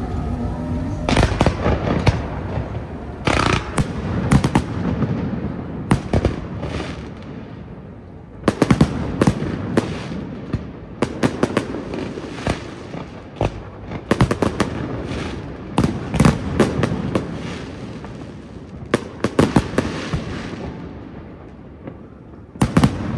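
Aerial fireworks display: shells bursting in clusters of sharp bangs every second or two, each cluster followed by an echoing rumble.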